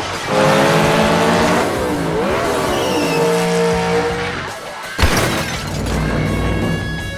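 Race-car engine sound effect revving, with tire squeal, over background music, its pitch dipping and climbing again partway through. A sharp thump about five seconds in.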